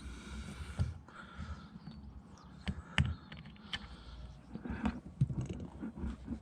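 Scattered small clicks and taps of a pick prying plastic screw caps and trim off a Saab 9-5 door panel.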